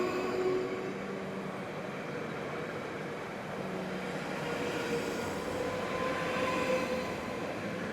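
Electric passenger train running past on the rails, a steady rumble with whining tones from its electric traction equipment, one of them rising slightly in pitch through the middle.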